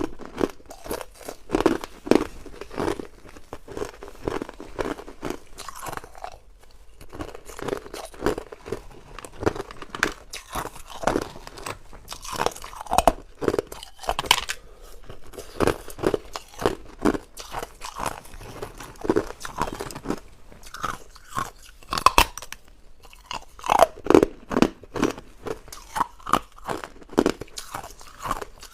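Hard ice cubes being bitten and chewed close to the microphone: a steady run of loud, sharp crunches, about two or three a second, with a brief pause about six seconds in.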